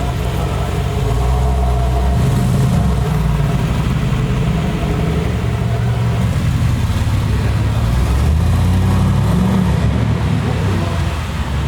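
A car engine running steadily with a deep, low rumble whose pitch shifts slightly up and down.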